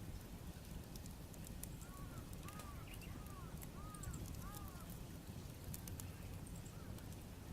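Wood fire crackling with scattered sharp pops over a low steady rumble, while a bird calls a quick series of about six short arched notes starting about two seconds in.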